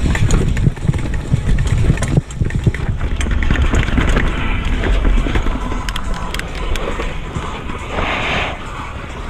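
Riding noise of a retro mountain bike going down a dirt trail: a steady heavy low rumble with quick rattles and clicks as the bike goes over bumps.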